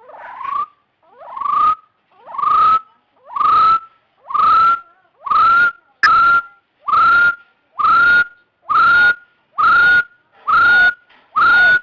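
Hill partridge call: a series of whistled notes about one a second, each sliding up and then holding level. The first few notes grow louder before the series settles at an even strength.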